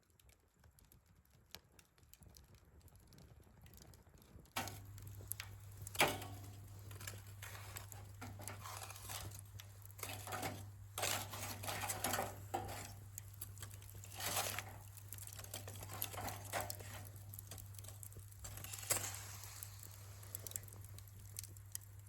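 Close rustling and crinkling of packaging with small clicks and clinks of handled items, like camp food or gear being unpacked. A steady low hum comes in about four and a half seconds in.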